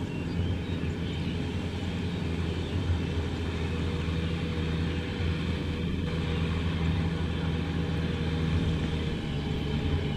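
Kubota M6040SU tractor's diesel engine running at a steady speed, a constant low drone.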